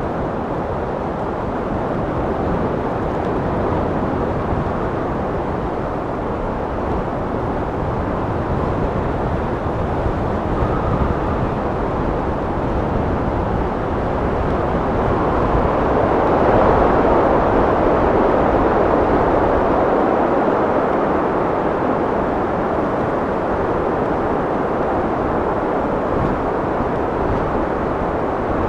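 Steady wind blowing, a low rushing noise that swells into a stronger gust about halfway through and then eases back.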